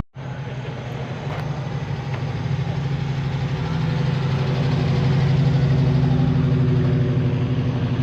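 A car engine idling with a steady, even low note, growing louder over the first few seconds and then holding steady.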